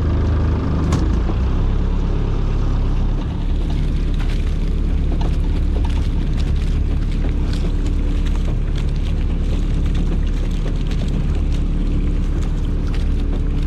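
Boat engine running steadily while a rope is hauled aboard through a cleaner that strips weed off it, with many irregular sharp clicks and drips from about four seconds in.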